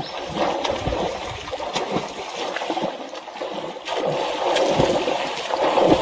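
Water splashing and sloshing irregularly, with a couple of dull low thuds.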